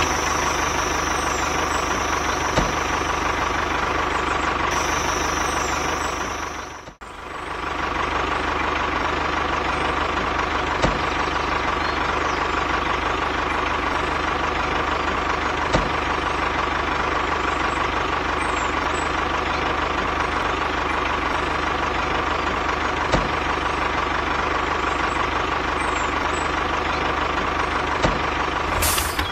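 A small engine running steadily at idle, with a constant whine over a low drone. It drops out briefly about seven seconds in and picks up again.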